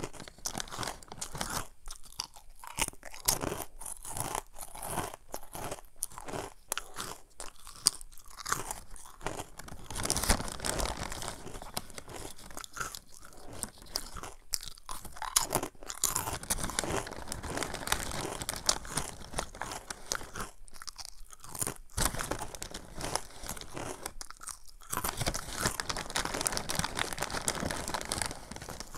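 Crunching and chewing of Samyang Jjanggu churro snack sticks, bitten and chewed continuously in a dense crackle, pausing briefly twice in the latter part.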